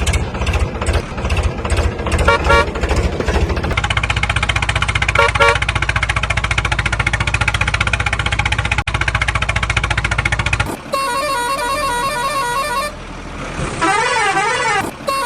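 Heavy vehicle engine running, pulsing at first and then steady, with short horn toots. About eleven seconds in it gives way to a bright, rapidly repeating electronic tune with a wavering tone near the end.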